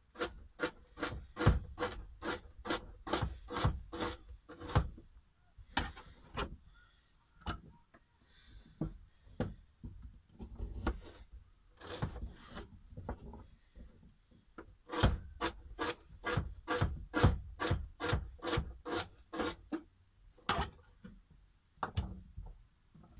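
An Asian-style chopping knife chopping peeled root vegetables on a cutting board: quick, even knocks of the blade on the board about three a second, in two long runs with a few scattered chops between them.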